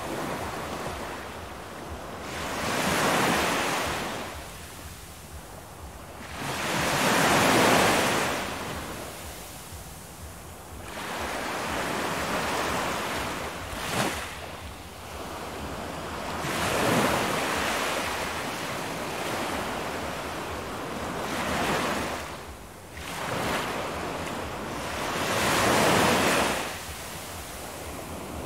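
Ocean waves washing in and drawing back, each surge rising and falling away about every four to five seconds, with a single short click about halfway through.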